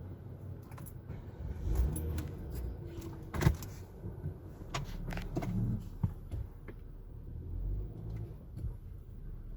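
Low steady car rumble with scattered clicks and knocks; the sharpest knock comes about three and a half seconds in.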